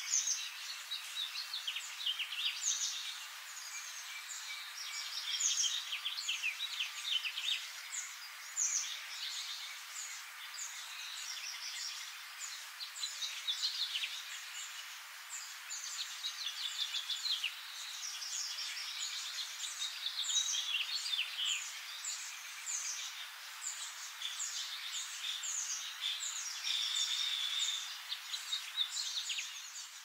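Small birds chirping and twittering without a break, many quick high chirps overlapping.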